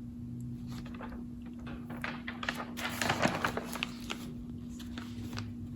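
Room tone with a steady low hum, and a few faint scattered clicks and rustles around the middle.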